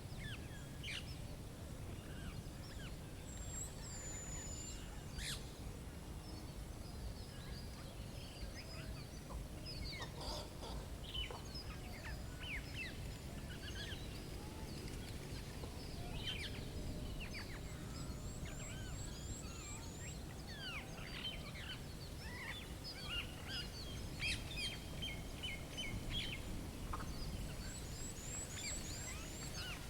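Many small birds chirping, with short downward-sweeping calls and a couple of quick high-pitched chirp runs, over a steady low background rumble.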